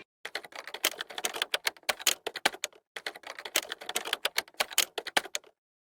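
Rapid, irregular clicking like typewriter keys, in two runs with a brief pause near the middle, then stopping shortly before the end.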